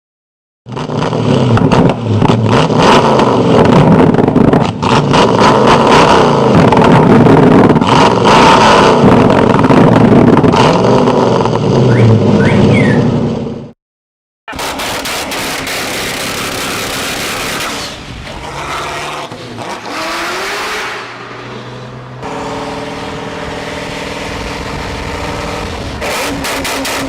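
V8 car engines revving hard with rapid crackling exhaust pops and bangs, very loud. After a short silence about 14 seconds in, a quieter engine revs up once and settles into a steady idle.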